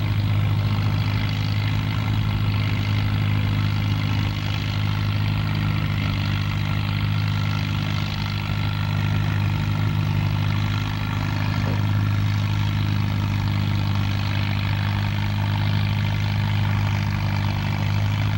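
Engine running at a steady speed: a low hum that holds one pitch with no revving.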